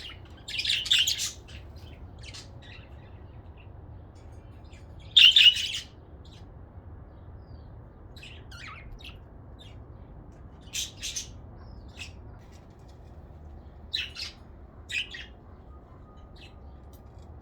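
Budgerigars chirping and squawking in short, high bursts, loudest about a second in and again around five seconds, with scattered softer chirps after.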